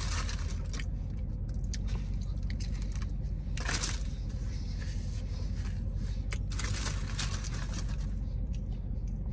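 A man chewing a sandwich with small clicking mouth sounds, over a steady low hum in a car's cabin. Two brief hissy sounds come about four and about seven seconds in.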